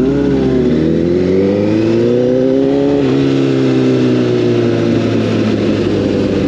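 Sport motorcycle engine pulling under acceleration, its pitch rising for about three seconds, then dropping sharply with a gear change and running on at a steadier pitch.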